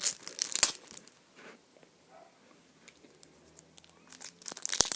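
Packaging of a boxed card deck crinkling and tearing as it is opened by hand, with a quiet pause in the middle before the crinkling starts again near the end.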